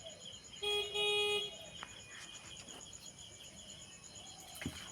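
A short two-part horn-like honk about a second in, over the steady high chirping of crickets, with a small knock near the end.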